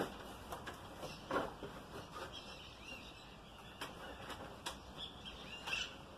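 Faint bird chirps with a few light knocks, the loudest about a second and a half in.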